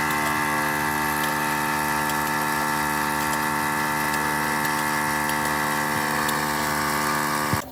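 A machine running at one steady pitch, starting and cutting off abruptly.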